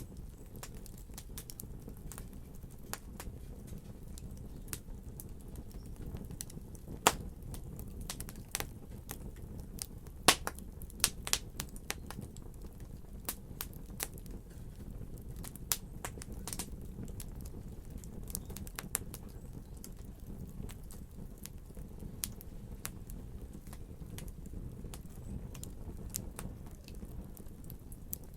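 Wood fire crackling in a fireplace: irregular sharp pops and snaps over a steady low rumble, with a louder pop about seven seconds in and a cluster of loud pops around ten to eleven seconds in.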